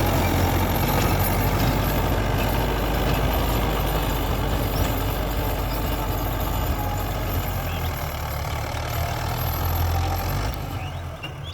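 Mahindra 475 DI SP Plus tractor's four-cylinder diesel engine running steadily as it works a field, growing quieter near the end.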